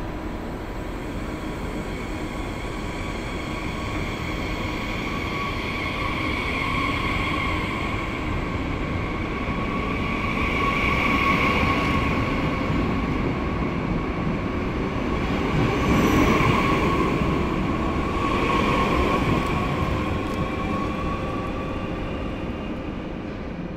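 Talgo sleeper train running, heard inside the carriage corridor: a steady rumble with a thin high whine over it, swelling louder about halfway through and again a few seconds later.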